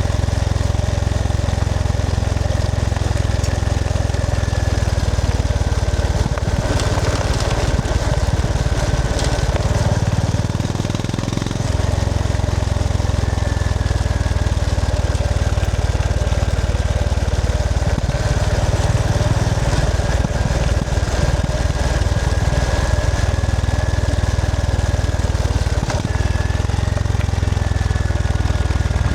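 Honda GB350S's air-cooled single-cylinder engine running steadily under way, with a broad rush of noise over it. The engine note drops briefly about ten seconds in, then picks up again.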